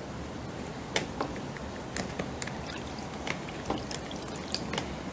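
Water sloshing inside an IKEA Tokig salad spinner with cloth pad liners in it, with scattered irregular clicks and knocks from the plastic bowl and lid.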